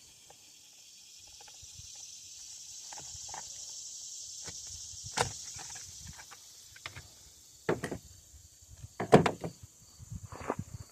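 Scattered clicks and knocks of hand work on a small chainsaw's housing and parts, a few sharper knocks in the second half, over a steady high chirring of crickets.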